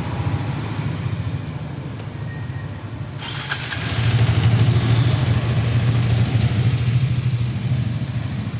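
Hero Karizma XMR's single-cylinder DOHC engine idling with a steady low rumble, growing louder about three seconds in and staying up until it eases slightly near the end.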